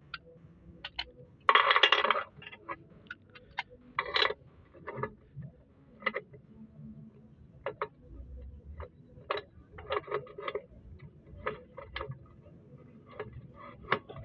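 Metal tools and bolts clinking and tapping against a gearbox bell housing as it is bolted on, in scattered short knocks, with a louder half-second clatter about a second and a half in.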